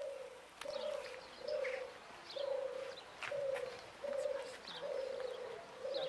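A bird cooing in a steady run of short, low, even coos, a little more than one a second, with faint high chirps from other birds over it.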